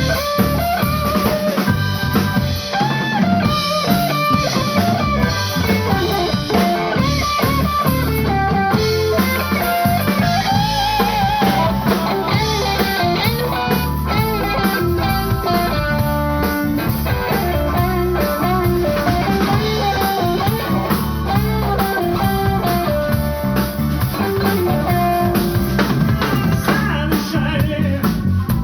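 Live blues band playing: guitar lines with bending notes over drum kit and a full low end.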